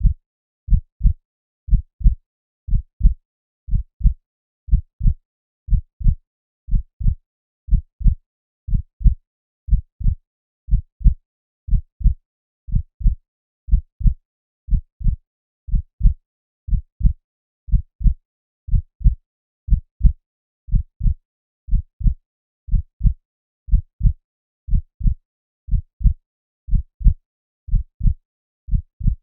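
Heartbeat sound: steady paired low thumps, about one beat a second, with silence between beats.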